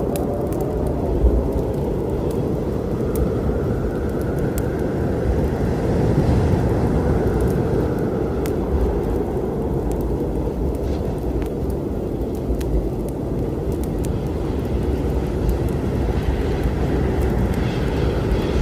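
Low, steady rumble of a storm mixed with sparse sharp crackles and pops from a wood fire.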